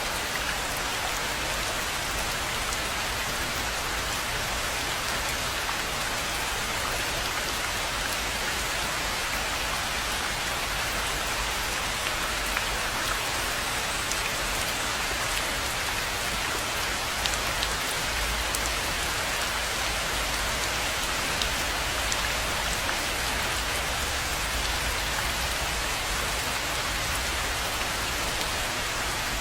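Steady rain falling on a rainforest pond: a dense, even patter with occasional sharper single drops.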